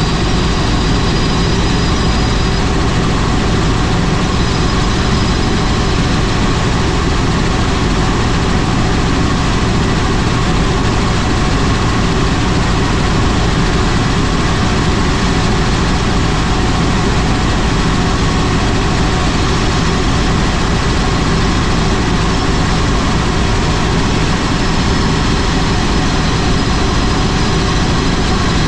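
Helicopter turbine engine and rotor running steadily at a constant loud level, with a faint high whine.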